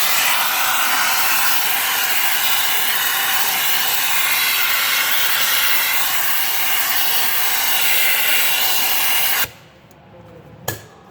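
Small air vacuum running with a loud, steady hiss as it sucks corrosion debris out of the EGR valve bore. It cuts off suddenly near the end, followed by two short knocks.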